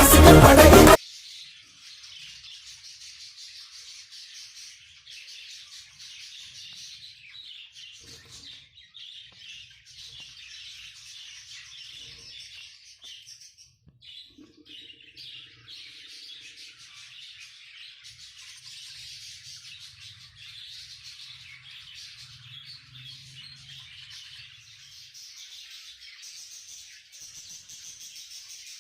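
Budgerigars chirping and chattering, a continuous high twittering with no pauses. Music plays over the first second and then cuts off suddenly.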